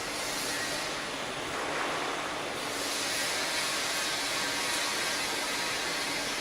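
A 15 kW multi-rip circular saw machine running steadily, a continuous hissing machine noise from its motor and spinning blades.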